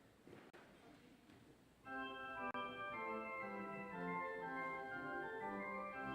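Low room sound, then about two seconds in an organ begins playing slow, sustained chords.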